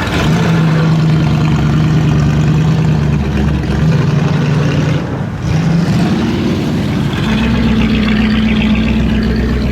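V8 muscle car engine running at a steady low note; about five seconds in it dips briefly, then rises in pitch and holds a higher steady note.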